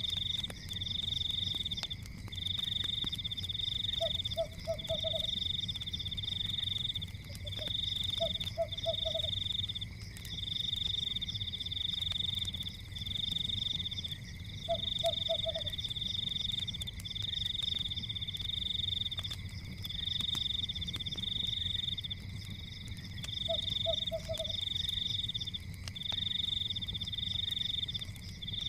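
Night chorus of frogs: a high, pulsing trill repeating in roughly one-second bursts, with a lower croak of three or four quick pulses now and then. Faint crackles of a wood fire sound underneath.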